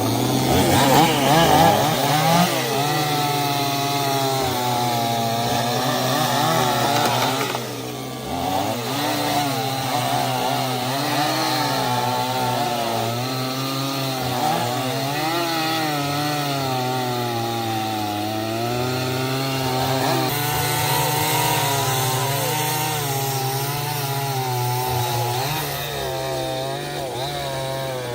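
Chainsaw running while cutting into wood, its engine pitch wavering under the load of the cut. It eases off briefly about eight seconds in, then bites back in.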